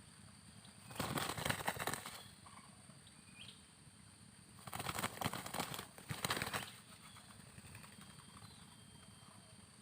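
Birds' wings flapping in two bursts, each about a second or two long, with a few faint short chirps between.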